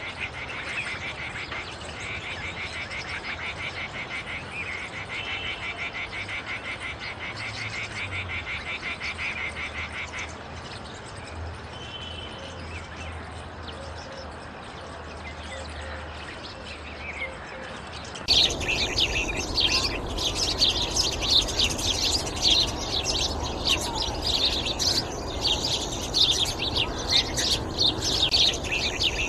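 Songbirds singing: a fast, even trill for the first third, then a sudden change about two-thirds of the way through to a louder stretch of busy, overlapping chirping.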